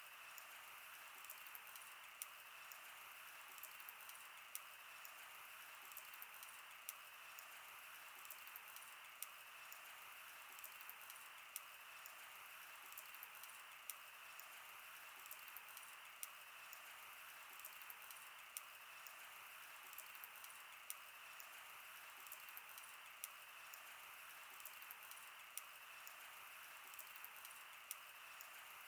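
Wood fire burning: a faint steady hiss with frequent sharp crackles and pops, a louder pop every second or two.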